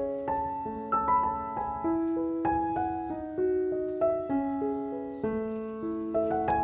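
Background piano music: a gentle melody of struck notes, several a second, each fading after it is played.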